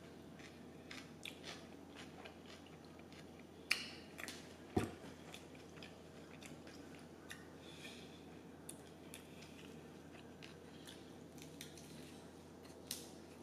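Close-up mouth sounds of a person chewing and biting into a soft chicken tortilla wrap: faint, wet chewing with scattered small clicks and two louder clicks about four and five seconds in.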